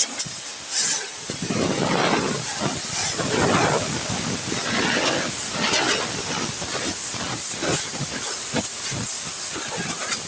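Pressure washer spraying water onto a combine harvester: a steady jet hiss, with the spray noise swelling and fading as the jet moves over the machine.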